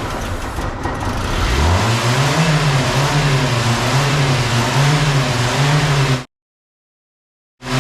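Yugo's carburetted four-cylinder engine cranking, then catching on starting fluid and revving up, running unevenly with a wavering pitch. It has a large vacuum leak at the brake booster hose. The sound cuts off abruptly about six seconds in, and comes back briefly near the end.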